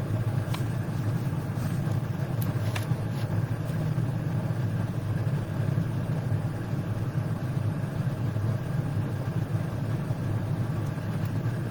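Steady low mechanical hum with no change through the pause, with a couple of faint clicks near the start.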